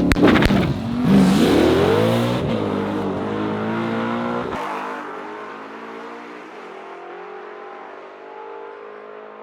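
Drag race cars launching off the line: the engines rev up through several rising pitches with gear changes, then fade steadily as the cars pull away down the track. The driver says his car bogged badly at the hit before it came on.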